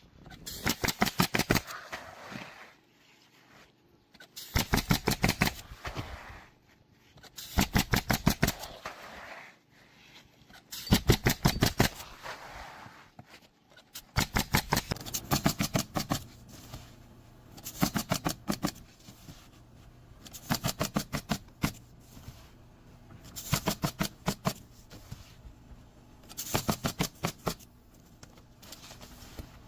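Pneumatic roofing nail gun bump-firing in rapid bursts of about a dozen shots, roughly nine a second, with a new burst every few seconds.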